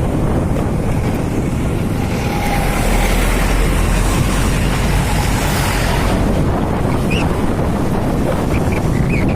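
Wind buffeting the microphone of a moving motorcycle, a steady low roar with engine and road noise underneath.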